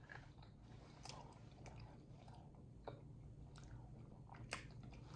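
Near silence with faint chewing of food and a few small clicks, the sharpest about three seconds in and again a second and a half later.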